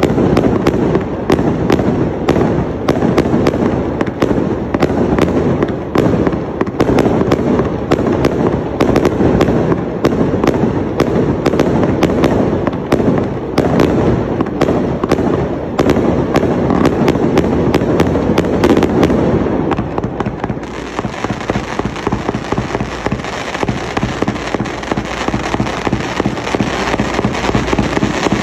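Multi-shot fireworks display cakes firing a rapid barrage, with dense overlapping bangs and crackle. About twenty seconds in, the sound changes to a steadier hissing crackle with fewer separate bangs.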